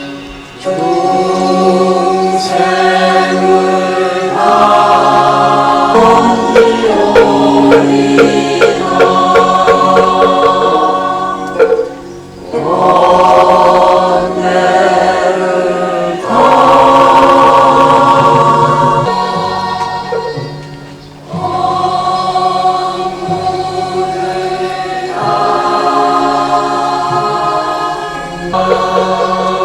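A choir singing a Buddhist hymn in long held phrases with musical accompaniment, with brief breaks between phrases about 12, 16 and 21 seconds in.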